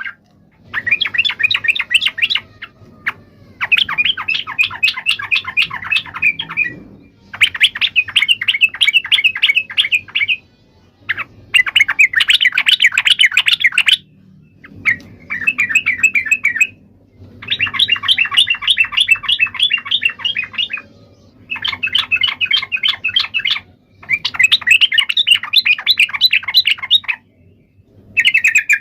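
Yellow-vented bulbul (trucukan) giving loud, rapid chattering song in about ten runs of quick repeated notes, each two to three seconds long with short pauses between.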